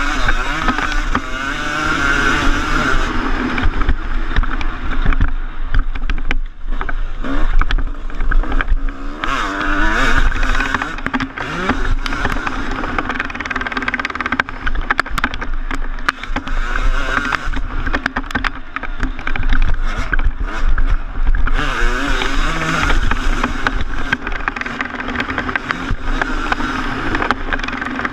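2014 Yamaha YZ250's single-cylinder two-stroke engine revving hard and backing off again and again while being ridden on a motocross track, with frequent short knocks and rattles.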